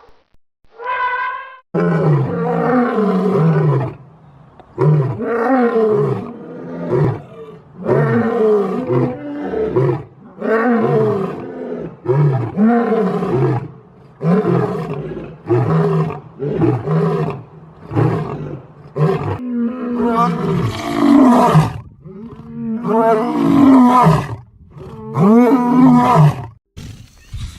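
A big cat roaring: about a dozen calls, each around a second long, rising and falling in pitch, with short gaps between them.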